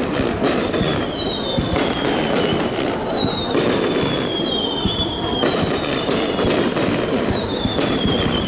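Fireworks going off: sharp bangs about once a second, with several whistles that each fall slowly in pitch over a second or so, above a dense, steady background noise.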